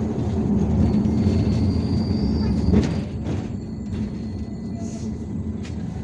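IVECO Urbanway 18M articulated city bus under way, heard from inside: a steady low rumble of the drivetrain and road, with a sharp clunk about three seconds in, after which it runs quieter.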